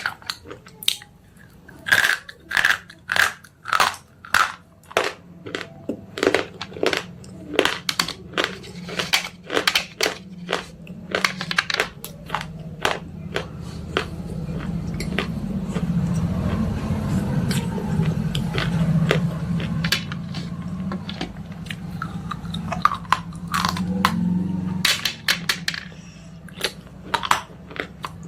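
Slate pencils being bitten and chewed close to the microphone: a fast run of sharp, brittle crunches, a few a second. Roughly halfway through it turns into a denser, steadier, lower grinding chew, and sharp crunches return near the end.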